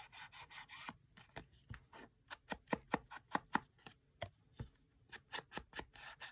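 Paper edges being distressed by hand: a tool scraped quickly and repeatedly along a paper tag, several short scratchy strokes a second, the strongest strokes in the middle.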